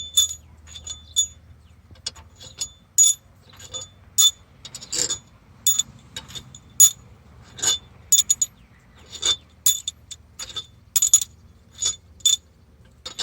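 Steel cylinder-head bolts being pulled out of a Ford 6.7 Powerstroke diesel head and set down: a long irregular run of sharp metallic clinks with a bright ring, one every half second to a second, over a faint low hum.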